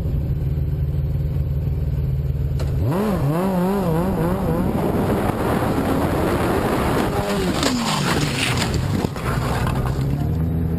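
Vehicle running with steady engine and road noise. About three seconds in, a wavering pitched sound comes in, followed by several seconds of rushing noise and a falling tone, before the steady running sound returns.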